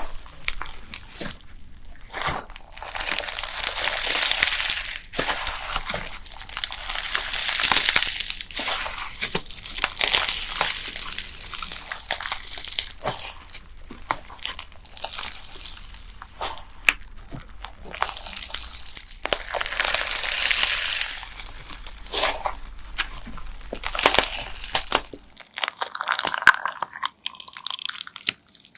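Bead-filled slime squished, stretched and pressed by hand: wet crackling and popping with many small, sharp clicks of plastic beads, swelling and fading with each squeeze.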